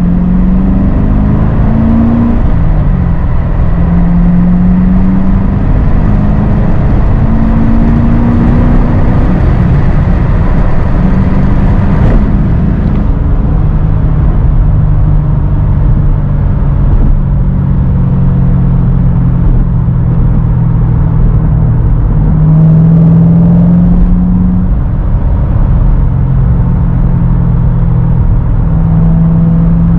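Chevrolet Corvette C7's 6.2-litre V8 through its NPP dual-mode exhaust while driving. The engine note climbs and drops back with gear changes several times over the first ten seconds or so, holds steady at cruise through the middle, then climbs again with further pulls later on.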